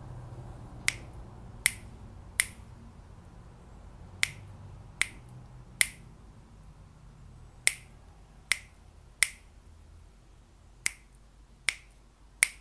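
Finger snaps in sets of three, a little under a second apart, with a pause of about a second and a half between sets, keeping a beat for the practice turn.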